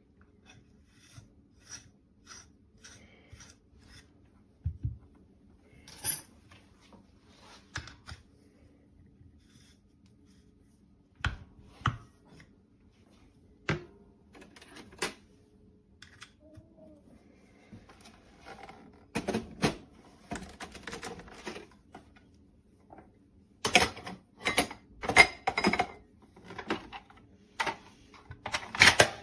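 Clicks, taps and clatter of small hard objects being handled and set down, scattered at first and coming in quick runs of knocks in the second half.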